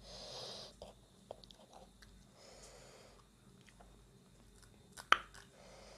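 A person chewing a mouthful of panipuri, the crisp puri shells crunching, with wet mouth clicks and soft breathy hisses between chews; one sharp click about five seconds in is the loudest sound.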